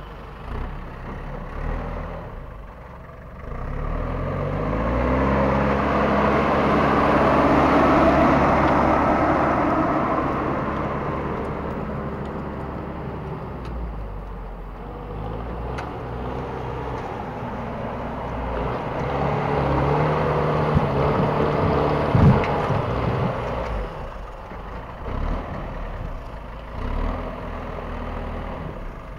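LKT 81 forestry skidder's diesel engine running, revving up about four seconds in and slowly easing off, then picking up again around twenty seconds. A single sharp clunk comes about twenty-two seconds in.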